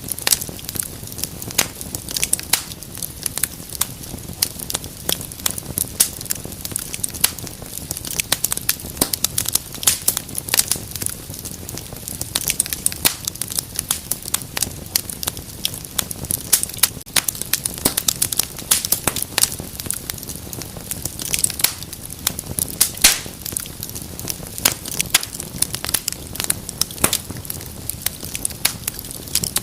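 Wood fire burning in a fireplace, crackling and popping with many sharp irregular snaps over a steady low rumble of the flames.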